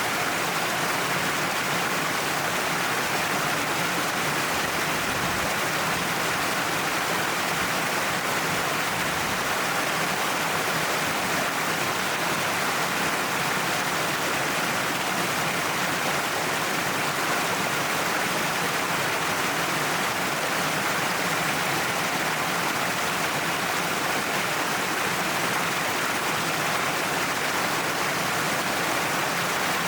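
Waterfall pouring down a cliff face: a steady, unbroken rush of falling water.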